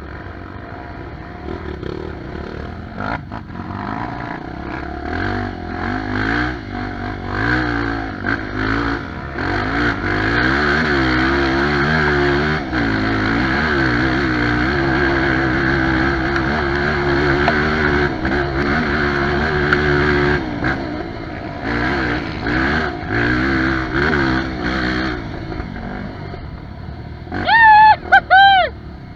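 Dirt bike engine labouring up a steep trail climb, its revs rising and falling as the throttle is worked, getting louder as it comes closer and then fading. Near the end someone gives two loud shouts of encouragement.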